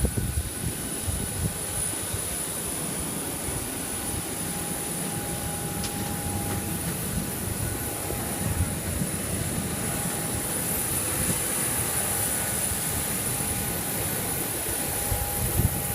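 Steady high-pitched turbine whine of a jet airliner over a rumbling low roar, with gusts buffeting the microphone.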